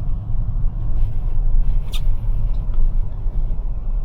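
Steady low rumble inside the cabin of a Toyota RAV4 Prime driving slowly on Blizzak snow tires over a snow-covered street, with a faint click about two seconds in.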